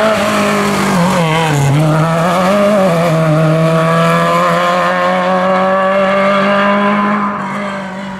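Historic rally car's engine at hard throttle on a rally stage: the pitch drops briefly about a second in as the driver lifts off, then climbs steadily in one long pull, fading near the end as the car goes away.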